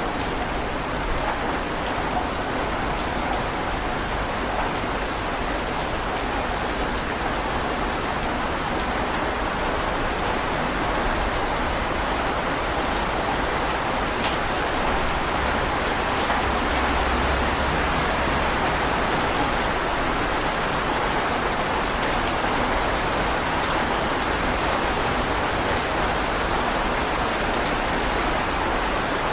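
Heavy rain falling steadily: an even rushing hiss with scattered sharp drop ticks. A soft low rumble swells briefly about halfway through.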